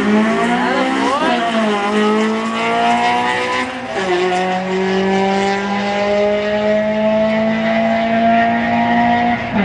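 First-generation Mitsubishi Eclipse engine accelerating hard down a drag strip. Its pitch climbs steadily in each gear and drops at the upshifts, about a second and a half in, at four seconds, and once more near the end.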